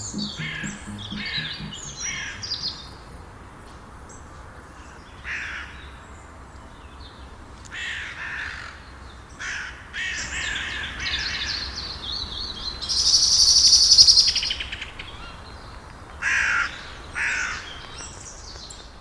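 Birds calling outdoors: harsh, cawing calls repeated at irregular intervals. About thirteen seconds in comes a loud, high rapid rattle lasting about a second and a half. Faint music fades out in the first couple of seconds.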